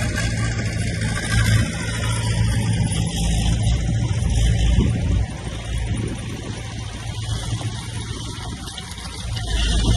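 Heavy diesel earthmoving machinery, such as dump trucks and a bulldozer, running steadily with a low engine drone. It eases off a little about halfway through and picks up again near the end.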